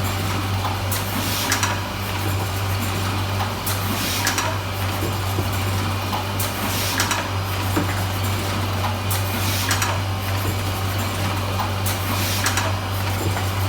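Semi-automatic rigid box making machine running: a steady motor hum, with a short, sharp stroke about every three seconds as it forms each box.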